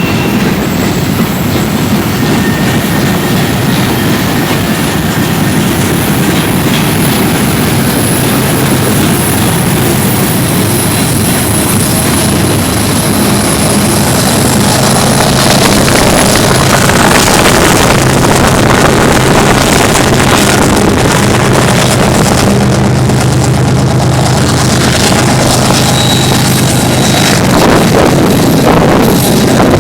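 Manifest freight train passing close by, a steady loud run of wheels on rail and rolling cars, with a low drone that grows louder about halfway through.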